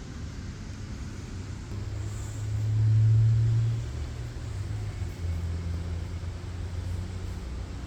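A low, pitched rumble that swells loudest about three seconds in, then settles to a deeper steady hum.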